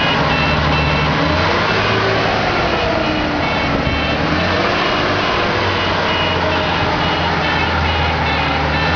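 Outrigger boat's engine running loud and steady, with a constant low hum.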